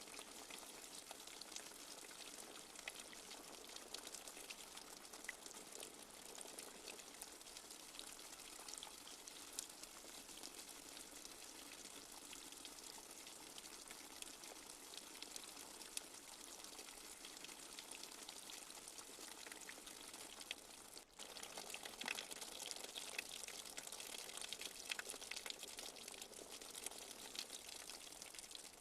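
Steady light rain with many small drops tapping and dripping. It drops out for a moment about 21 seconds in and comes back a little louder.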